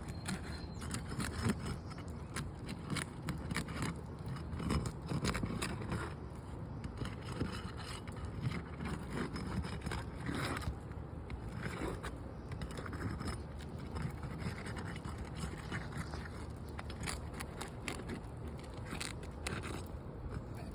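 Irregular scraping and small clicks of a tool working at roof shingles, as a damaged shingle is worked loose for replacement.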